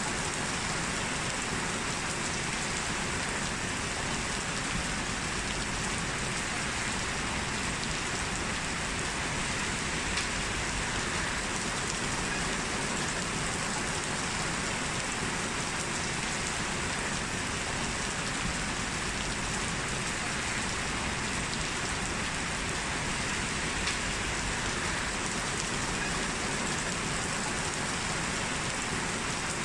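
Heavy rain falling steadily on a street, an even hiss of drops with an occasional louder drip.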